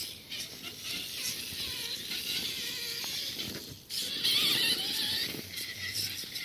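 Small electric motors and gears of radio-controlled scale crawler trucks whining as they crawl, the high-pitched whine wavering in pitch with the throttle and growing louder about four seconds in.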